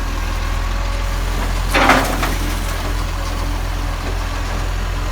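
Garbage truck's diesel engine running steadily with a deep rumble, with a short loud burst of noise about two seconds in.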